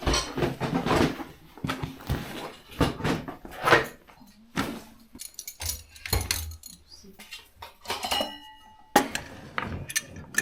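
Clatter of dishes and cookware being handled: a series of knocks and clinks, with one ringing metallic strike about eight seconds in.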